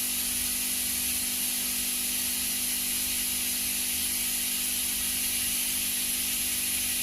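Steady, unchanging hiss with a low hum underneath, with no distinct events.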